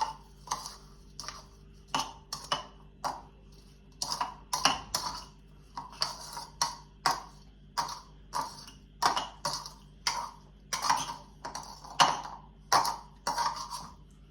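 A spoon stirring a thick paneer sandwich filling in a mixing bowl, scraping and knocking against the bowl about twice a second.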